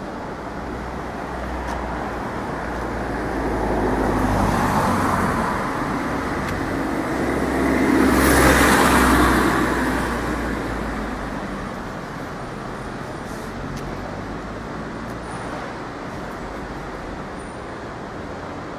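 Street traffic with two vehicles passing by, one about four seconds in and a louder one about eight seconds in. Each rises and fades like a pass-by, over a steady background of road noise.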